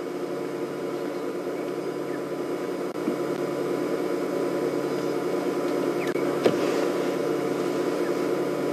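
Steady mechanical hum made of several held tones, growing slightly louder, with one soft click about six and a half seconds in.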